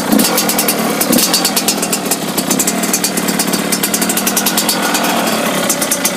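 2005 Yamaha YZ85's two-stroke single-cylinder engine running steadily just after a cold kick-start with the choke on.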